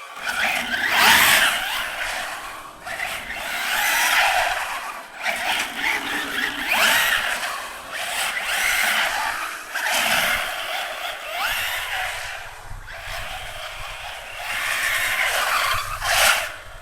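Brushless electric motor of a 1/10-scale RC desert truck whining up in repeated hard throttle bursts, with its tyres scrabbling and skidding on the ground. The surges come about every two to three seconds, each rising in pitch.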